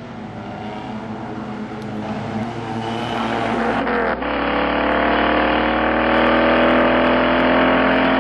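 Suzuki Alto K10 race cars' small three-cylinder engines running on the circuit, growing louder as they come closer. About four seconds in the sound cuts abruptly to a single engine note that climbs slowly and steadily in pitch.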